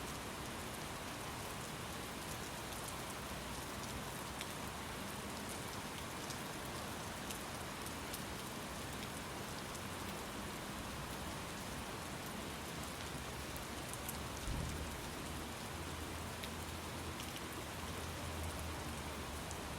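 Steady rain falling, a continuous even hiss dotted with small drop ticks, with a brief low thud about two-thirds of the way through.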